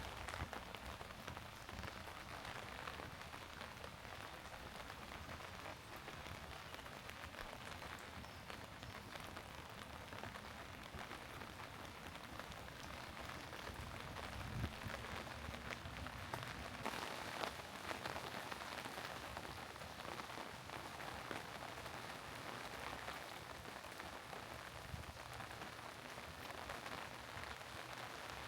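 Steady rain falling and pattering on surfaces, a continuous hiss made of many small drop impacts.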